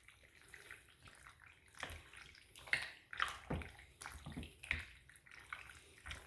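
Pasta, shredded chicken and sauce being stirred in a slow cooker pot: irregular wet squelching and sloshing with a few light knocks, busiest in the middle.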